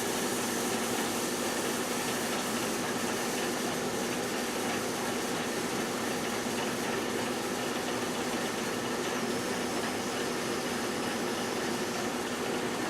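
GE Dual Wave microwave oven running steadily with a constant hum while heating a whole apple.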